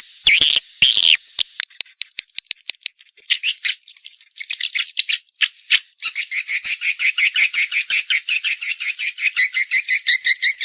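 Swiftlets twittering: quick high clicking chirps, turning about six seconds in into a dense, even rattling trill of about eight or nine pulses a second.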